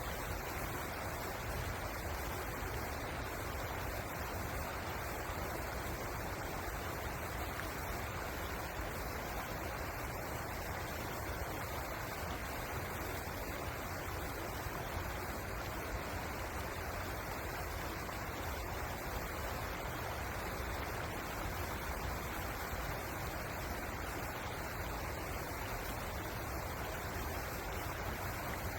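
Steady rush of flowing river water, an even hiss with no breaks or separate splashes.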